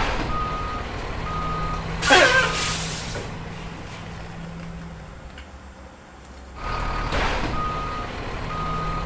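Vehicle reversing alarm beeping at an even pace over a low engine hum, then a loud hiss with a falling whistle about 2 s in that slowly fades. The beeping and hum start again about two-thirds of the way through.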